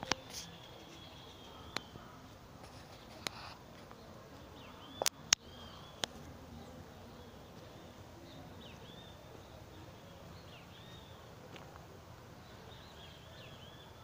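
Faint outdoor ambience with small birds chirping now and then, mostly in the second half. There are several sharp clicks in the first six seconds, the loudest a close pair about five seconds in.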